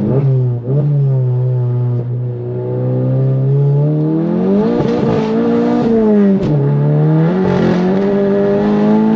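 Volkswagen MK7 Golf GTI's turbocharged 2.0-litre four-cylinder, fitted with an upgraded IS38 turbo, under hard acceleration. The engine note holds low and steady, then climbs in pitch from about four seconds in; it drops sharply about six seconds in at a gear change and climbs again.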